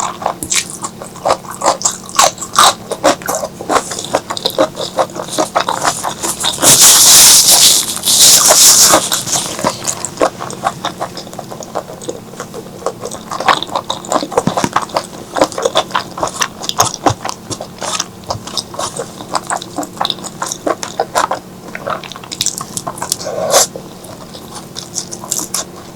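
Close-miked eating of spicy curry: wet chewing, lip-smacking and squishy bites in quick, uneven clicks. About seven seconds in, a loud airy hiss lasts about two seconds.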